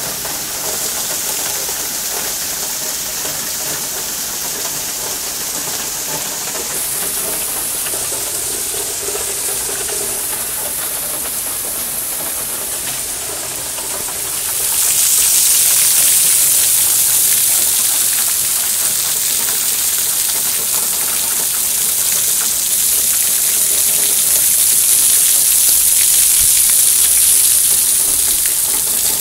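Heavy rain mixed with hail pouring down, a steady hiss that grows louder about halfway through.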